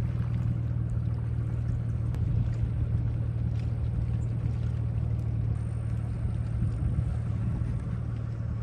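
A vehicle driving: a steady low engine and road rumble with no change in pitch, cut in and out abruptly.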